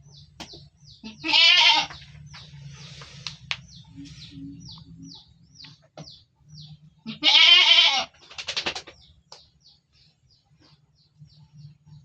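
Goat bleating twice, two loud wavering calls of about a second each, one about a second in and one about seven seconds in. Short high chirps repeat faintly in the background throughout.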